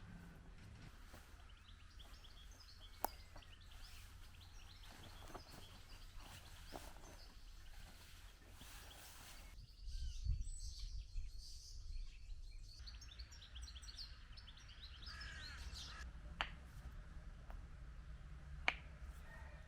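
Birds chirping and twittering, faint, over a low background rumble, with three sharp clicks or knocks, one near the start and two near the end.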